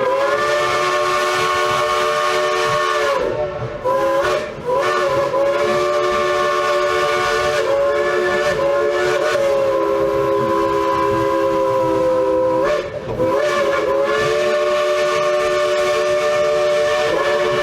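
Crosby three-chime steam whistle of a Baldwin Mikado-type steam locomotive played in long, loud chord blasts broken by a few brief pauses, the chord sliding as each blast starts and stops: the engineer playing a tune on the whistle.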